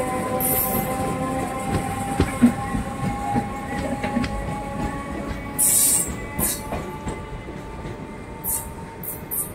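Passenger train running on the rails with its wheels squealing in several steady tones, over scattered clicks and knocks. Short high hisses come about half a second in, around six seconds in, and several times near the end.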